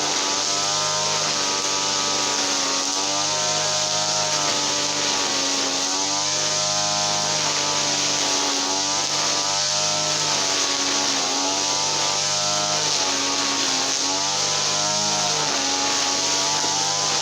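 Small petrol engine running steadily, its pitch rising and falling every second or two as the speed changes.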